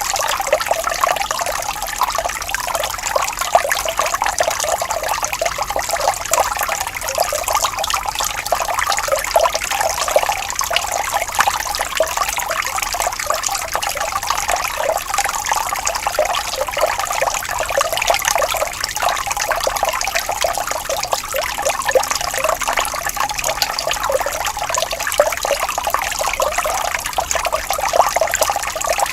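Water trickling and babbling steadily over stones in a small stream, a continuous bright splashing with no pauses.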